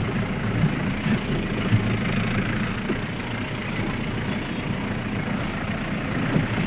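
Car engine running steadily at a low, even pace.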